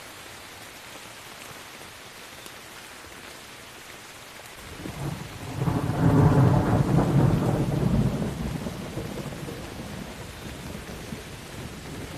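Steady rain falling, then a roll of thunder about four and a half seconds in that builds to a loud deep rumble and slowly dies away over the rain.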